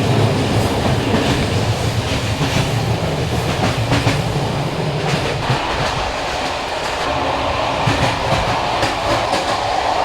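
An old passenger train carriage, about 50 years old, running along the track: a steady rumble with the wheels clacking irregularly over rail joints. A low hum fades out about halfway through.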